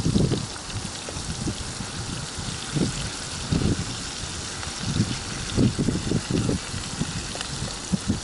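Flour-dredged rotan (Amur sleeper) fish frying in oil in a pan, sizzling steadily, with irregular low thumps underneath.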